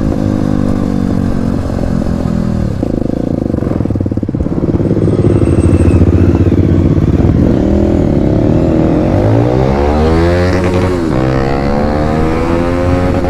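Motorcycle engine running under way, its pitch dropping about two to three seconds in, then rising in repeated sweeps as it accelerates through the gears near the end.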